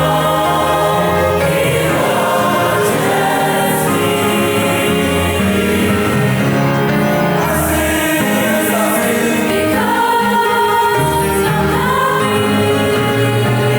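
A choir singing with musical accompaniment, several voices holding sustained notes at different pitches.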